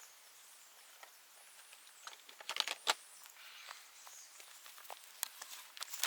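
Dry bamboo debris crackling and snapping in irregular sharp clicks, thickest about two and a half to three seconds in.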